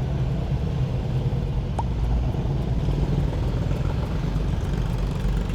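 Steady low rumble and hum of running engines or machinery, with a brief faint chirp about two seconds in.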